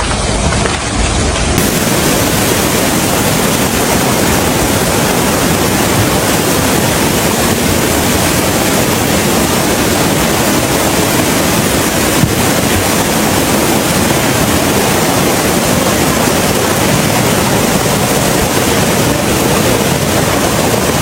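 Loud, steady rushing of water, an even noise with no breaks.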